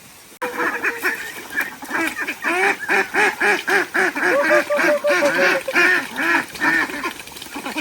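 Several ducks quacking, rapid overlapping calls of several a second, starting abruptly about half a second in.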